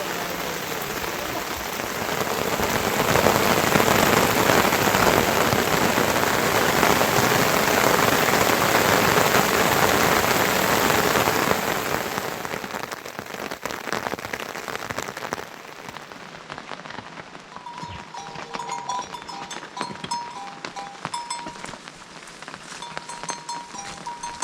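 Heavy rain pouring steadily, swelling louder after a few seconds and then fading out about halfway through. After that it is much quieter, with short repeated high tones from music coming in.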